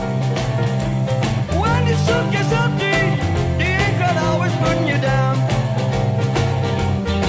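Blues-rock band playing an instrumental passage: a lead guitar bending and sliding its notes over a steady bass line and drums.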